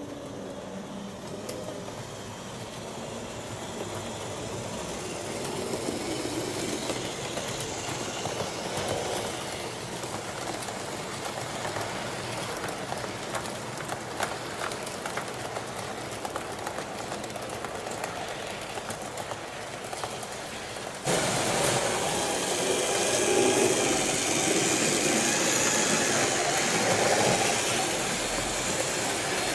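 A train running along the track, a steady rolling noise that slowly grows louder, then switches abruptly to a louder rolling passage about two-thirds of the way in.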